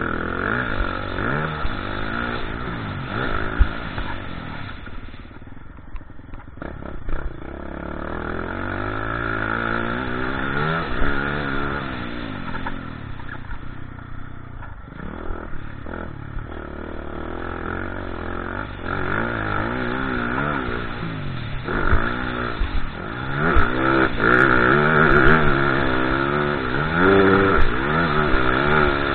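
Motocross dirt bike engine being ridden hard: the pitch repeatedly climbs and drops as the rider works the throttle and shifts gears.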